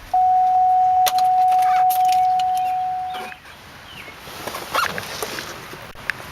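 A single steady electronic warning tone sounds for about three seconds and fades out. Light clicks of keys jangle around it, which fits the Hummer H2 having just been shut off with the keys being handled.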